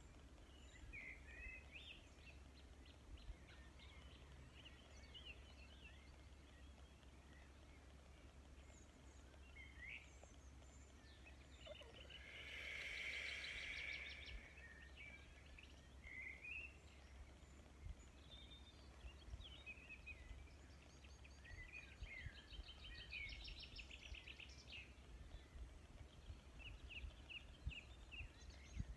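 Faint outdoor birdsong from several birds: short chirps and trilled phrases throughout, with one louder, rapid trill lasting about two seconds near the middle. A low steady rumble runs underneath.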